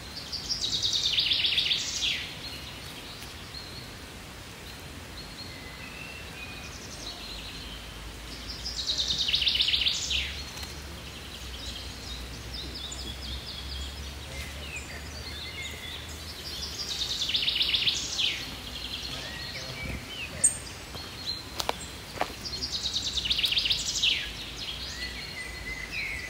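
A songbird singing the same short phrase four times, about every seven to eight seconds: a fast trill of repeated notes ending in a falling flourish. A few sharp clicks near the end.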